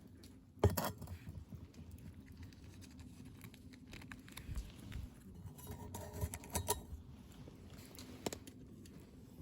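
Small objects being handled, making light clicks, taps and scraping, with one sharper knock about half a second in and a cluster of clinks around two-thirds of the way through.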